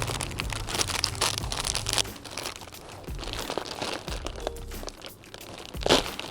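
Irregular crinkling and rustling handling noise made up of many small crackles, with a low steady hum under the first two seconds and a louder crackle near the end.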